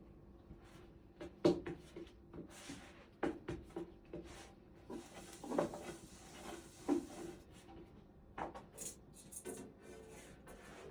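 Irregular knocks, clicks and rubbing of household things being handled, such as cupboard doors, drawers or utensils, about a dozen sharp knocks spread unevenly.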